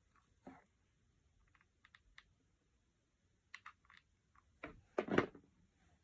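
Light clicks and taps of cardboard pieces and a hot glue gun being handled while gluing, with a louder cluster of knocks about five seconds in.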